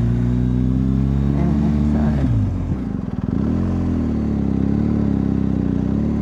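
BMW R1250GSA's boxer-twin engine running under way; a little over two seconds in the revs fall sharply as the throttle closes, then it runs on at lower revs with the pitch wavering up and down.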